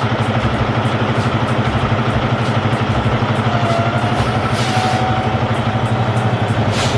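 Semi-truck's diesel engine running with a steady, rapid throb.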